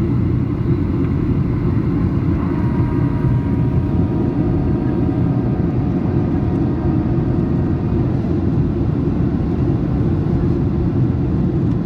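Steady rumble of engines and airflow inside the cabin of a Boeing 737-800 with CFM56 engines, descending on approach. A faint set of whining tones comes in about two and a half seconds in and fades a few seconds later.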